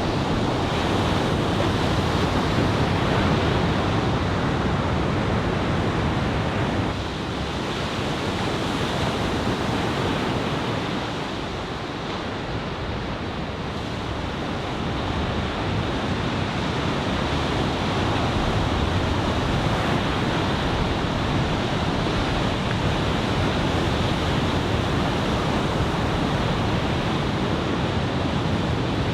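Ocean surf breaking and washing on the shore, a steady roar of head-high typhoon swell, with wind buffeting the microphone. The wash eases a little about seven seconds in and builds again a few seconds later.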